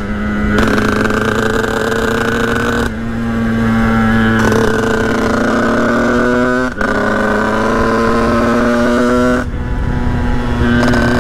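Sherco 50cc two-stroke motorcycle engine pulling at high revs while riding. The pitch climbs slowly in stretches and breaks briefly about three, seven and nine and a half seconds in, as at gear changes.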